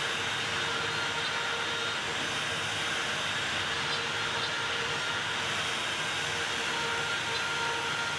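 Makita router spinning on a OneFinity CNC machine: a steady high whine over an even rushing noise, unchanging throughout.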